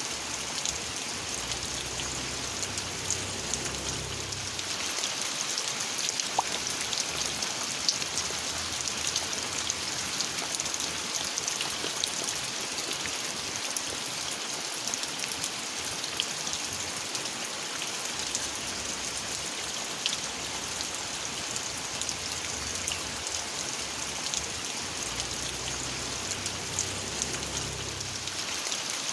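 Steady rain falling, with many individual drops ticking sharply on a surface close by.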